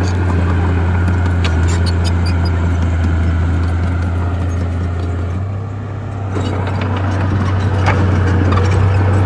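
Bulldozer's diesel engine running with a steady low drone, with the clinks and clanks of its steel tracks. The engine eases off briefly about six seconds in, then picks up again.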